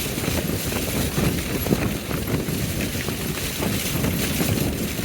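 Tent fabric flapping and slapping hard in gale-force wind, a dense irregular clatter over a steady roar of wind.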